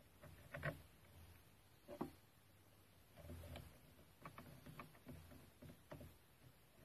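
Near silence broken by a few faint, scattered clicks and taps, as of small parts and hand tools being handled during reassembly of a strimmer.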